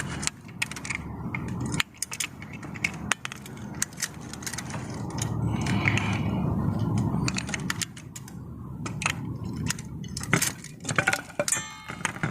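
Small metal clicks and rattles of hand tools and hardware being handled while a pool pump motor is taken apart, scattered irregularly over a low background noise.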